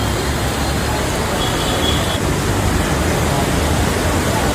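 Kapila Theertham waterfall: a steady, loud rush of falling water.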